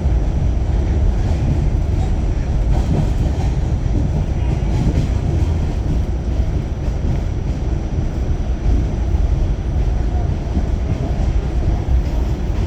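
Pullman Standard R46 subway train running between stations: a steady low rumble of wheels on rail, with faint clicks from the track.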